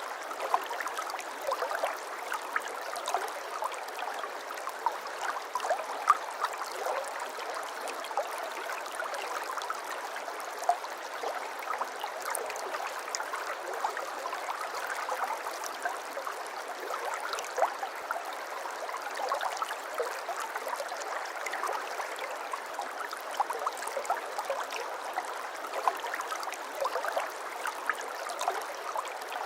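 A shallow stream trickling and gurgling steadily, with constant small splashes and no low rumble.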